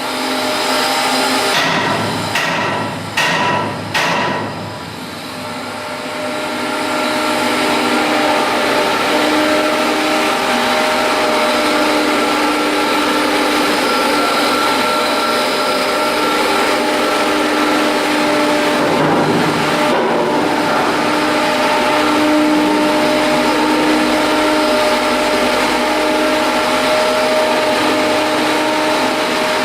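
Shipyard work noise: a few sharp metal knocks in the first few seconds, then a machine running steadily with a noisy hum and several held whining tones.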